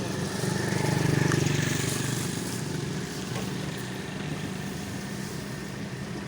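Tractor diesel engine running, loudest about a second in and then slowly fading as it moves away.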